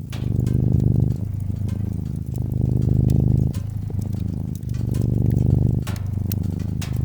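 Domestic cat purring in a steady low rumble, swelling and easing about once a second as it breathes in and out, with a few sharp crackles from a fireplace.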